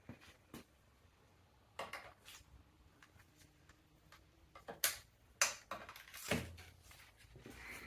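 Scattered sharp clicks and knocks of objects being handled, the loudest three about five, five and a half and six and a half seconds in.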